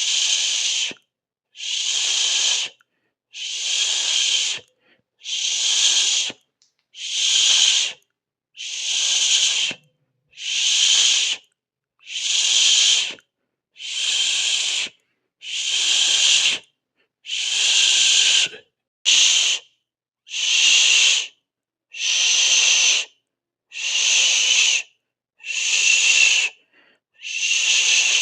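A person hissing with the mouth, 'sss', over and over: each hiss lasts about a second, with a short silent breath between, about one every two seconds. One hiss a little over two-thirds of the way in is cut shorter.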